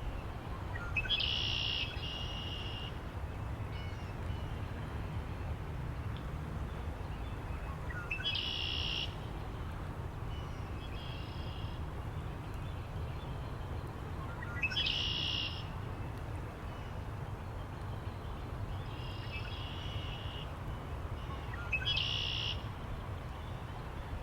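A bird repeating the same short call about every seven seconds, four times, each followed by a fainter answering call, over a steady low rumble of wind.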